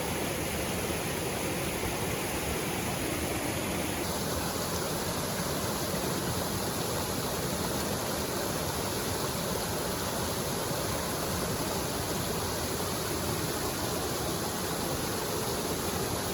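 Steady rush of a waterfall and river flowing, a constant even noise whose brightness drops slightly about four seconds in.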